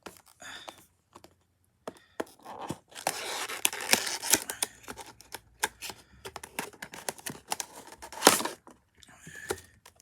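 Packaging of a model-airliner box being torn and opened: ripping and crinkling with many small clicks and rustles, busiest after about two seconds in. There is one loud rip just after eight seconds in.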